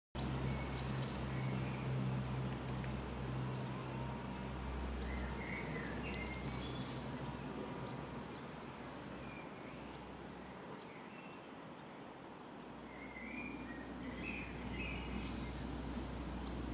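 Scattered short bird chirps and calls over a steady low rumble and constant background noise.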